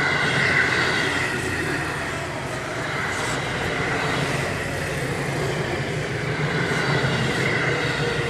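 Seibu Railway electric commuter train passing close by: a steady running noise of wheels on rail with a high whine and a low hum. A lower tone comes in near the end, falling slightly in pitch.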